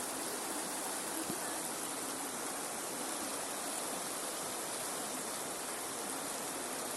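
A river in strong current flowing steadily, an even wash of water noise with no breaks.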